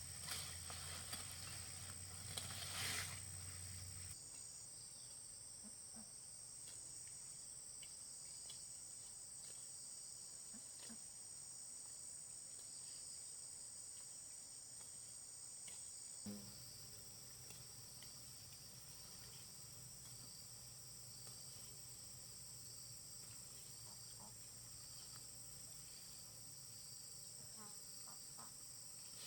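Steady high-pitched chorus of insects chirring, with a few faint scattered clicks and taps. A brief louder rustle comes about three seconds in.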